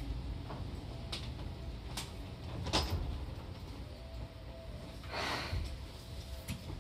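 Inside a Seibu 2000 series electric train, running quietly: a steady low hum with a few sharp knocks, and a short hiss of air about five seconds in.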